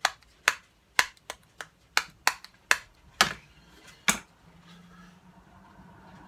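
A run of about ten sharp, irregular clicks or taps of small hard objects over about four seconds, then they stop and only a faint low hum remains.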